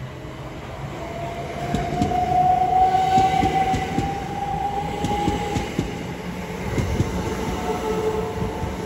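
Southeastern Class 375 Electrostar electric multiple unit moving along the platform, its wheels clicking over rail joints. A steady high whine rises and holds for several seconds, loudest a couple of seconds in.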